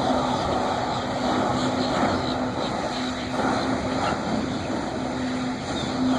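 Jet ski engine running steadily, driving a water-jet flying device, with a steady hum and a continuous rushing noise.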